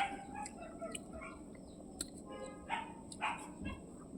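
Dog barking a few times, between about two and three and a half seconds in, with small clicks scattered through.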